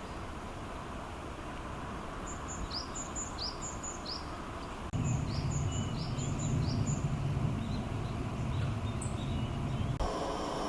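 A small bird calling a quick series of short, high chirps for a few seconds over a steady outdoor hiss, with a low rumble joining about halfway through.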